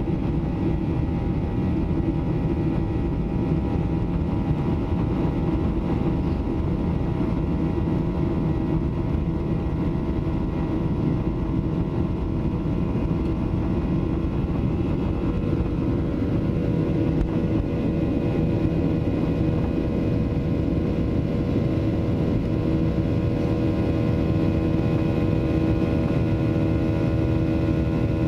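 Boeing 737-800's CFM56-7B turbofan engines running steadily during take-off: a steady rumble with several held engine tones, and a higher tone joining a little over halfway through.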